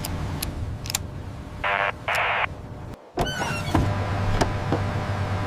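Two short bursts of noise, then, after a brief break about three seconds in, a motor starts and runs with a steady low hum.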